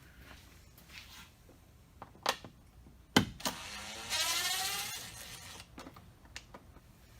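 A few sharp clicks of a tool handled against the door, then a cordless drill/driver whirring for about a second and a half, rising in pitch as it spins up.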